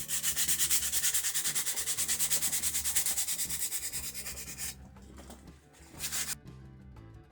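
Coarse 60-grit sandpaper rubbed by hand quickly back and forth on a wooden knife handle, a fast even scratching of about eight strokes a second. It stops about two-thirds of the way through, then comes back for one short burst.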